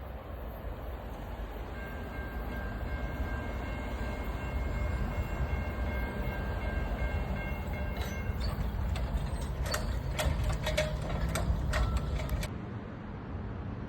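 A train approaching and passing close by, its rumble building. A steady high tone sounds for several seconds, then a quick run of wheel clicks and clatter over the rails before the sound cuts off abruptly about a second before the end.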